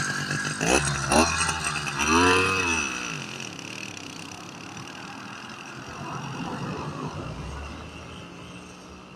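Cold two-stroke engine of a motorized bicycle revving in three quick blips, the last one longer, then moving off and fading into the distance.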